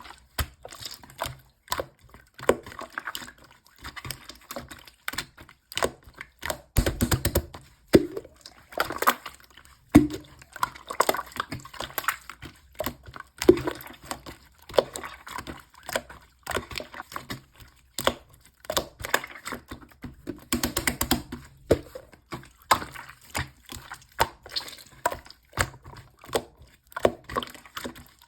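Slime being kneaded and squeezed by hand, giving an irregular stream of sticky clicks and pops, with a few louder squelches.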